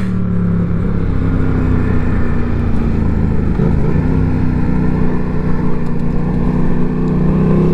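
Yamaha MT-07's parallel-twin engine running at steady low revs while the motorcycle is ridden, its note holding an even pitch.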